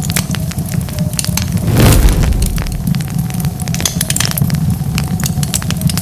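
Wood fire crackling, with dense small pops and snaps over a steady low rumble of flames. A louder rush swells briefly about two seconds in.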